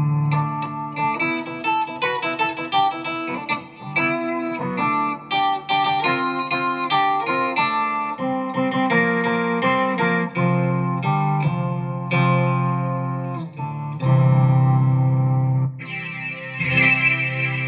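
Electric guitar played through a BOSS SY-200 synthesizer pedal, a run of single synth-voiced notes and short phrases. Near the end the tone switches to a brighter, buzzier synth sound.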